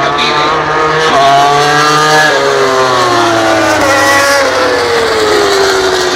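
MotoGP racing motorcycles running on track, their engine notes climbing and then falling in pitch as they pass. In the second half one engine note drops away in a long downward glide.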